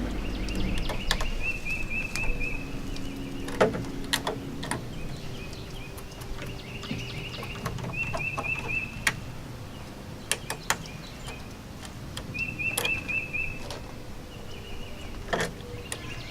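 Scattered clicks and knocks from handling the wires and thermostat on an electric water heater. A bird repeats a short, quick series of high notes several times in the background.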